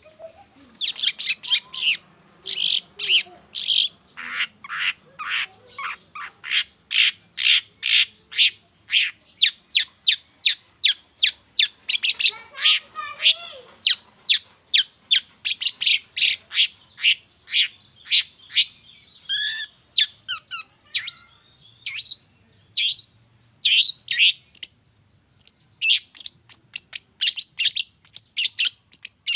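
Long-tailed shrike (cendet) calling in a long run of short, harsh notes, about two to three a second, with a brief warbled phrase about twelve seconds in.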